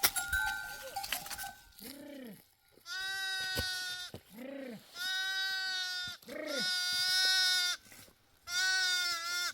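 A farm animal calling in a rhythmic series: four long, loud calls about two seconds apart, each preceded by a short lower sound. Light clicking and ringing tones come before the first call.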